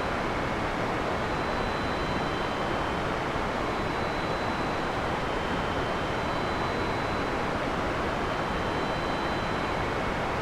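Heavy rain falling as a steady, even wash of noise, with no thunder.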